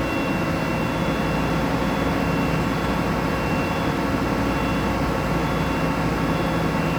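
An industrial grinding machine running steadily, with a constant low hum and a thin high whine, during its automatic wheel-dressing cycle as the carriage traverses back and forth.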